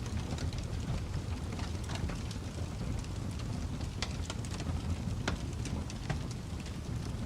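Wood fire burning in a fireplace: a steady low rumble of flames with scattered sharp crackles and pops, a few a second, the loudest about four and five seconds in.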